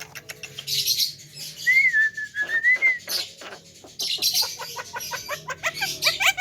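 Javan myna calling: harsh rasping bursts, a wavering whistled note about two seconds in, and toward the end a fast run of short rising chirps.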